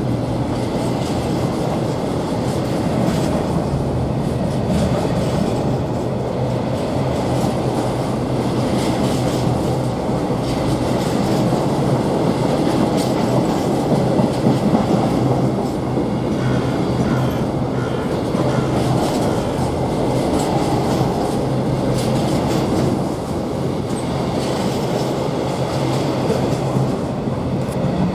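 Long freight train rolling steadily past, its empty container flat wagons clattering over the rail joints with a continuous low rumble.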